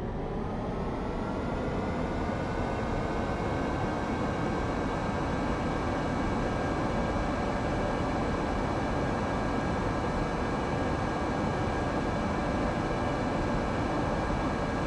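Airbus A318's twin jet engines spooling up to takeoff thrust, heard inside the cabin: a rising whine that levels off after about three seconds and then holds steady over a dense rumble.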